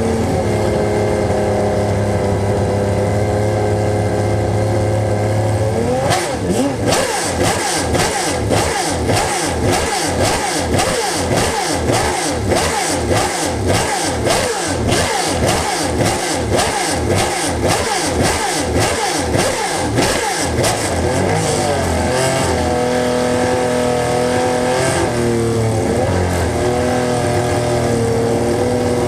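A car engine idling, then revved in quick repeated blips, about one and a half a second, for roughly fifteen seconds, before settling back to a steady idle.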